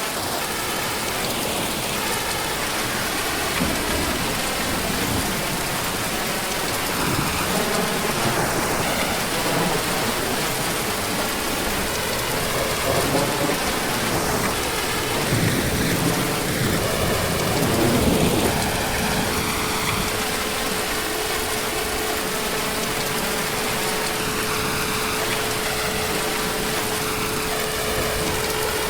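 Heavy, steady rain with a thunderstorm, swelling louder a few times in the middle. About two-thirds of the way through, a steady hum comes in under the rain.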